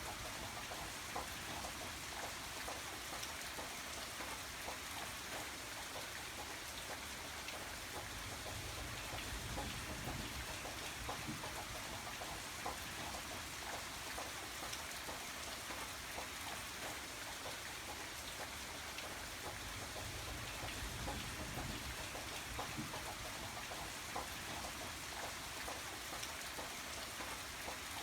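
Steady rain falling, with individual drops pattering on a surface over an even hiss and a low rumble.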